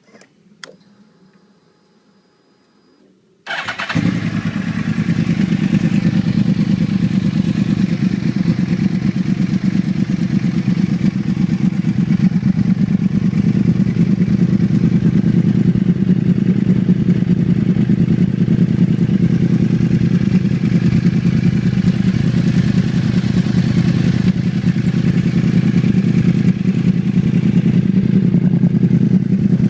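2012 Yamaha R1's crossplane inline-four, breathing through a Graves Link titanium and carbon slip-on exhaust, is started about three and a half seconds in. It catches at once and then idles steadily, already warm.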